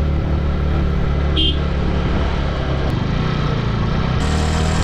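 Motorcycle engine running steadily as the bike climbs a very steep hill, with a brief high-pitched chirp about a second and a half in.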